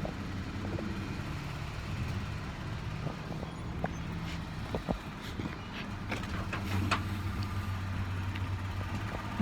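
Car engine running with a steady low hum, with a few light knocks and clicks.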